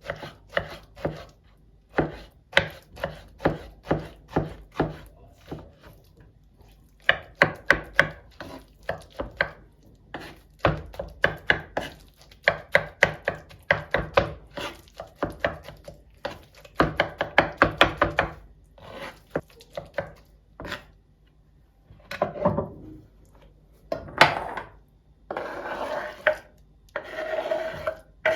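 Knife chopping on a cutting board in quick runs of even strokes, about two to three a second, with short pauses between runs. Near the end there are a few seconds of rubbing or scraping.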